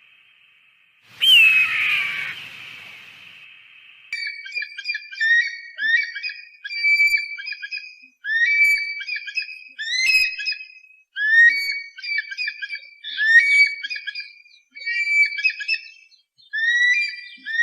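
Bird-of-prey calls: a loud scream falling in pitch about a second in, then from about four seconds a long run of short, high whistled calls repeating roughly once or twice a second.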